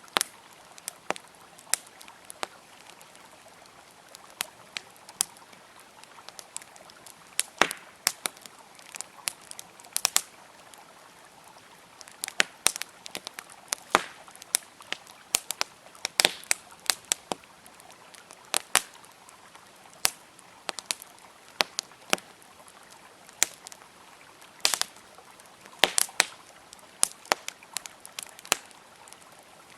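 Wood campfire crackling, with irregular sharp snaps and pops coming every fraction of a second to a second, over a faint steady rush of flowing river water.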